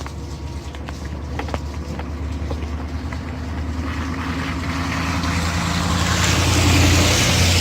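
A truck's engine running with a steady low hum that grows louder as it comes closer, joined by a rising rush of noise over the last few seconds.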